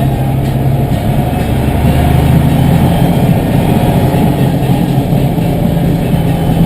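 Tractor's diesel engine running steadily at an even pitch.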